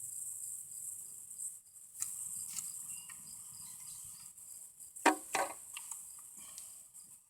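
Steady outdoor insect buzzing from crickets, with two sharp knocks a fraction of a second apart about five seconds in and a few lighter clicks around them.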